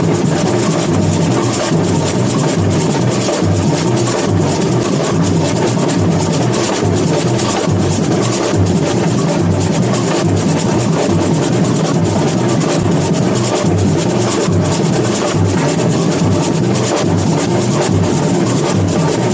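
Samba bateria playing a steady samba groove: deep bass drums pulsing on a regular beat under a dense, fast layer of high drums and shakers.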